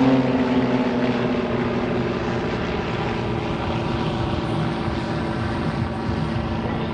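Propeller engines of Pitts Special aerobatic biplanes flying past, their pitch falling over the first couple of seconds, then a steady drone that slowly fades as they move away.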